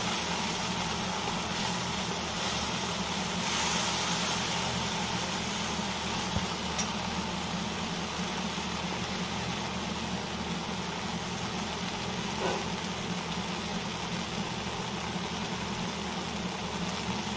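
Spice paste of ginger, cashew and green chilli frying in ghee in a steel kadhai: a steady sizzle over a constant low hum.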